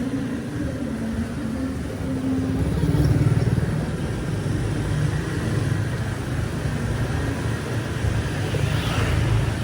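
Street traffic: motor vehicles running and passing close by, with an engine rumble that swells loudest about three seconds in.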